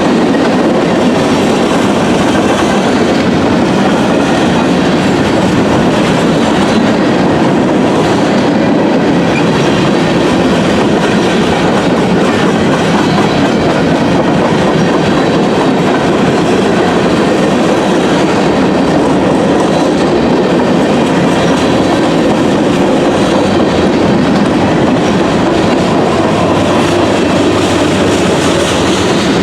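Norfolk Southern freight train's cars rolling on the rails: a loud, steady rumble of wheels and railcars.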